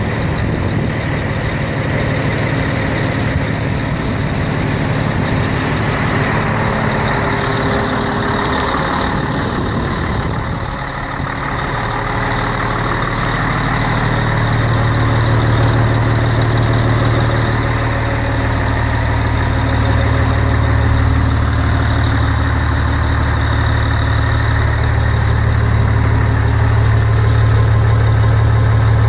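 Scania truck's diesel engine running steadily. It dips briefly about ten seconds in, then settles into a stronger, deeper steady hum.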